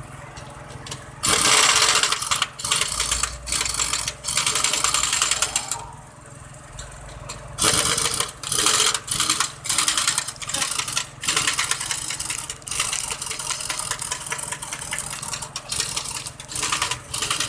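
Pneumatic impact wrench hammering in repeated short bursts, loosening or running down truck wheel lug nuts, over a steady low hum.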